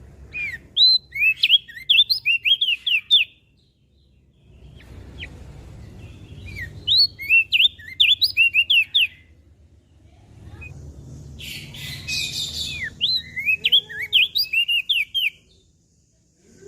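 An opior jambul songbird singing three bursts of song, each a quick run of sharp, downward-slurred whistled notes. A brief rushing noise comes just before the third burst.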